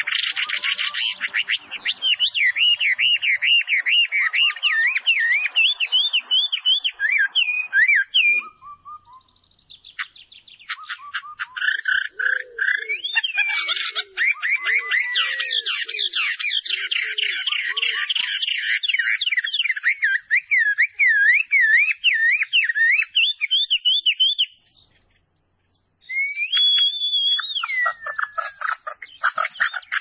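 Songbirds singing a loud, fast warbling and trilling song that keeps going, with a lower call repeated several times in the middle. The song breaks off twice, briefly about a third of the way in and again near the end.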